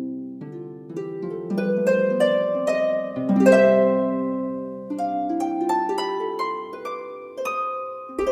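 Background music of a gently plucked harp, single notes and broken chords following one another and ringing out.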